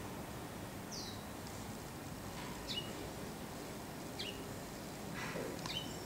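Small birds giving four short, high chirps that drop in pitch, spaced about a second and a half apart, over a steady faint outdoor background hiss.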